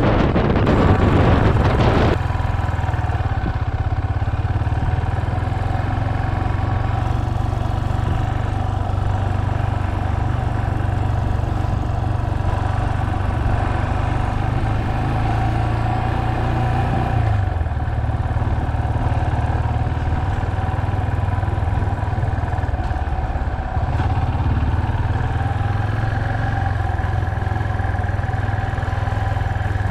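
Motorcycle engine running steadily while riding, with wind rushing over the microphone for the first two seconds. The engine note shifts briefly a little past halfway.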